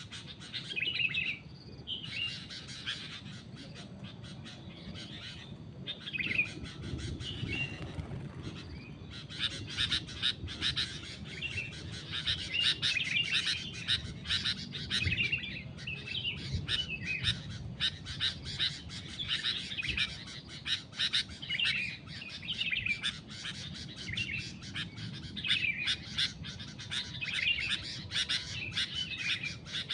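Sooty-headed bulbuls calling, short chirping phrases repeated over and over, sparse at first and almost continuous from about nine seconds in.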